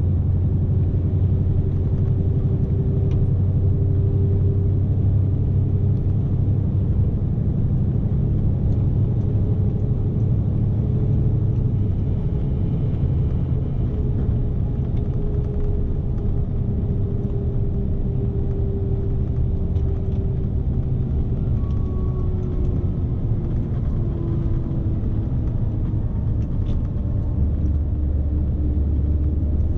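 Scania S520 truck's V8 diesel engine running under way, heard from inside the cab as a steady low rumble with an engine tone that drifts slightly up and down.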